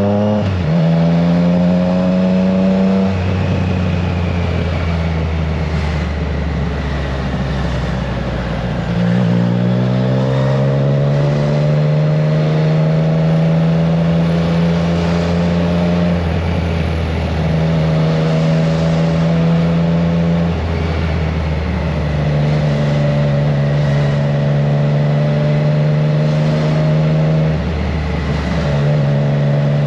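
Triumph Trident 660 inline three-cylinder engine through a FireTong aftermarket exhaust, heard from on board the moving motorcycle. It revs up at the start, drops briefly at a gear change about 3 s in, climbs again from about 9 s and then holds a steady cruise with short dips in pitch, under steady wind noise on the microphone.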